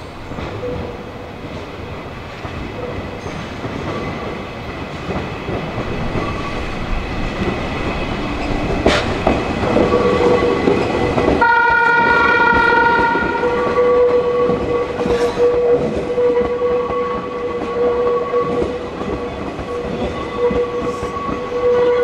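A Meitetsu electric train approaching along the platform, growing steadily louder. About halfway through it sounds a horn blast of about two seconds, and afterwards a steady whine runs on as it pulls in.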